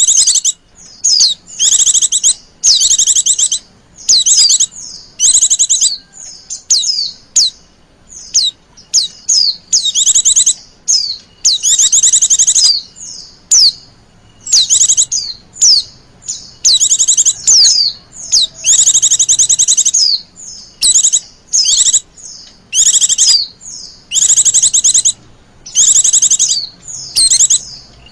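Female white-eye (pleci) calling: loud, high phrases of rapid chirping notes, each under a second long, repeated about once a second with softer single chirps in between. This is the female's call that keepers use to lure and stir up male pleci.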